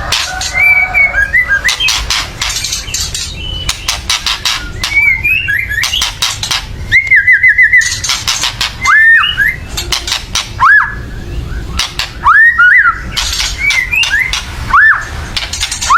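White-rumped shama (murai batu) calling hard: harsh, rattling 'kretekan' notes mixed with loud arched whistles, including a quick run of about five notes about halfway through. This harsh rattling is the shama's excited, aggressive call.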